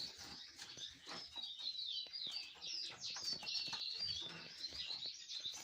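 Small cage birds, canaries and finches, chirping and twittering in a run of quick, high, wavering calls, with faint ticks among them.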